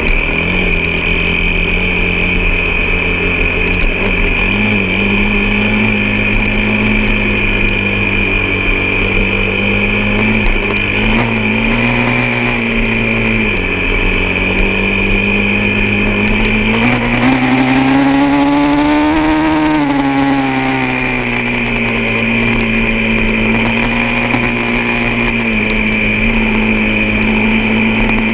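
An off-road vehicle's engine running steadily under load, with a constant high whine over it. About two-thirds of the way through, the revs climb for a few seconds, then drop back.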